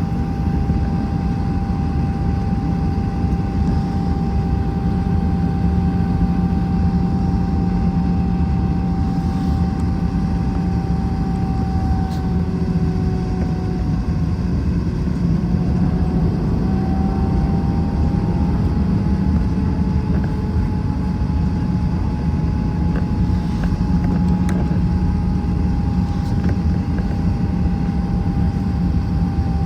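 Airbus A321 jet engines heard from inside the cabin while the airliner taxis: a steady rumble and hum with an engine whine that sags slightly in pitch about halfway through, then comes back up.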